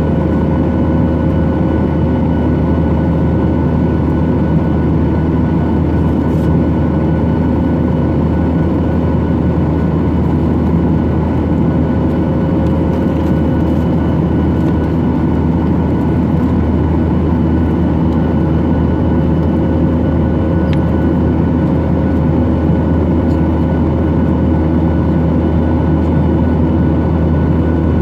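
Boeing 737-800's CFM56 jet engines and airflow heard from inside the passenger cabin: a loud, steady drone with a few constant hum tones, unchanging throughout.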